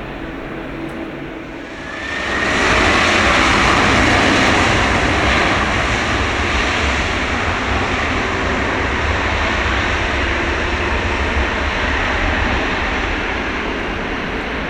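Boeing 767-300ER jet airliner landing. The engine noise swells suddenly about two seconds in, with a short rising whine, then holds as a loud, steady rush that slowly eases off.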